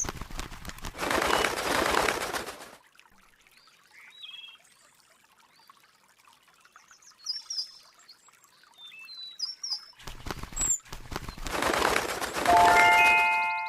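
Short high bird chirps in a quiet stretch, between two loud whooshing rushes of noise. A few ringing chime notes enter near the end and fade.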